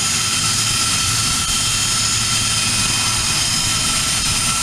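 Learjet's jet engines idling with a steady high whine over a constant rush, while the aircraft sits for its pre-taxi flap and rudder checks.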